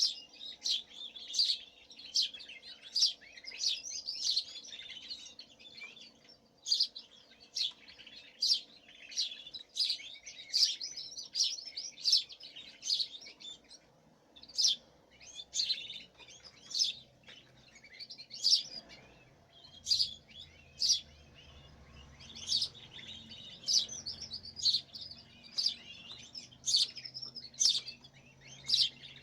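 Caged small birds chirping: a long string of short, sharp chirps with softer twittering between them.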